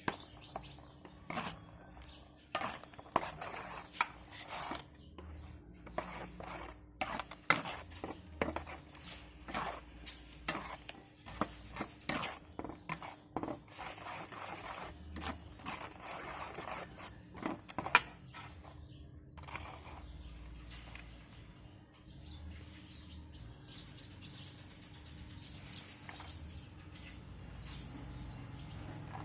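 Irregular sharp clicks and knocks of kitchen food preparation for the first two-thirds, then a faint steady hiss.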